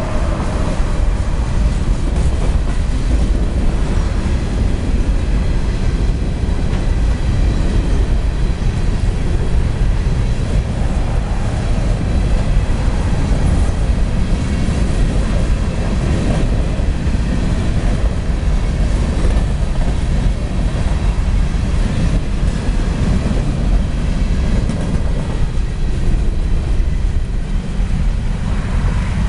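Coal train of open-top hopper cars rolling past at a grade crossing: a steady rumble and clatter of steel wheels on the rails. The rumble eases near the end as the last car clears, with the crossing bell ringing behind it.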